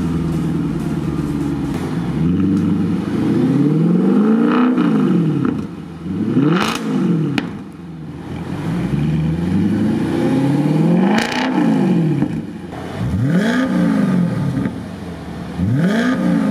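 Audi S5 (B8) 4.2-litre V8 running through a newly fitted Armytrix valved aftermarket exhaust, revved up and let fall back about five times in a row, its pitch rising and dropping with each rev.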